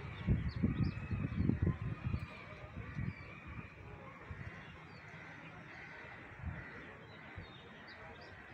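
Many small birds chirping and twittering all through, over a steady outdoor hiss, with loud low rumbling bumps in the first three seconds.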